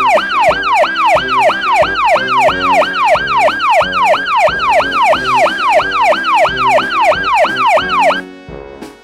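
Police siren in a fast yelp, sweeping rapidly in pitch about three times a second, over background music; the siren cuts off near the end, leaving the music.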